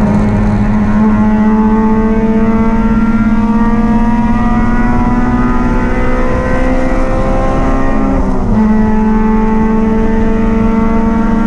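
Race car engine running hard and steady, its pitch creeping up over several seconds, then dipping briefly about eight seconds in before holding steady again.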